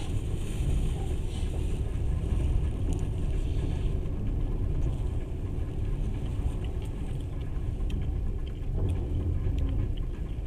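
Passenger train running, heard from inside the carriage: a steady low rumble of wheels on rails. A higher hiss is mixed in for the first few seconds, with a few faint clicks.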